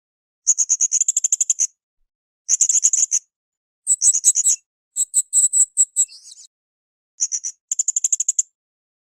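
Srindit hanging parrot calling: bursts of rapid, very high-pitched chittering trills, six phrases each under about a second and a half, with short pauses between.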